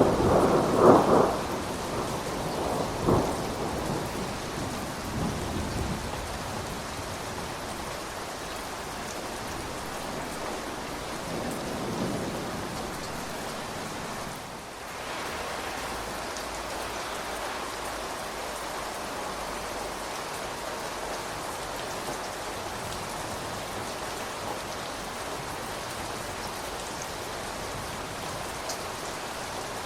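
Steady rain falling, with thunder rumbling loudly over the first few seconds and dying away, and a fainter rumble about twelve seconds in. After that comes only the even hiss of the rain.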